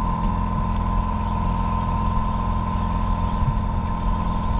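Boat motor running steadily, a low even drone with a constant higher whine above it.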